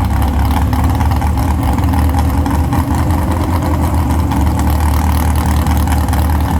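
Pulling truck's engine idling loudly with a deep, steady rumble, not yet revving for its pass.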